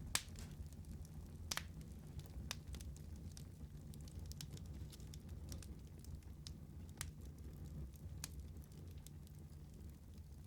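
Wood fire burning in a fireplace, crackling with scattered sharp pops over a steady low rumble. The loudest pop comes just after the start.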